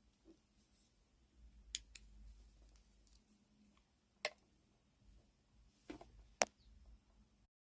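A handful of sharp, separate clicks over a faint low handling rumble, with no motor running; the sound cuts off completely near the end.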